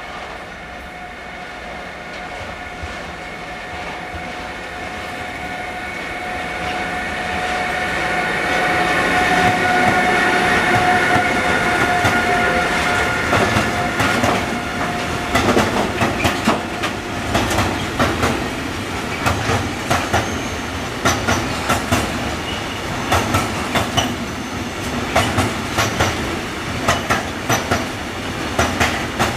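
Train approaching with a steady whine that grows louder. About halfway in the whine stops and the train rolls past with a rhythmic clickety-clack of wheels over rail joints.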